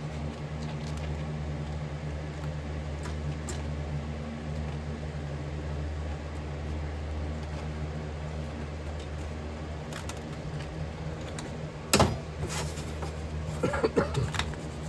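A steady low machine hum runs throughout. Light clicks come about ten seconds in, then a single sharp knock or clink about twelve seconds in, and a brief clatter of small metal pieces near the end.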